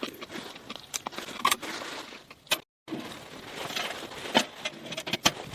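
Irregular light clinks and knocks of small hard objects being handled, with the sound cutting out completely for a moment about halfway through.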